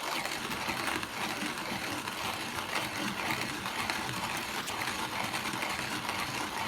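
Zassenhaus hand-cranked conical burr coffee grinder being turned, its burrs crushing a teaspoon of coffee beans in a steady, continuous grinding.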